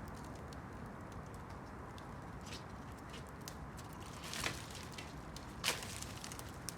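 Wood campfire crackling: scattered small ticks over a steady low noise, with two louder pops about four and a half and nearly six seconds in.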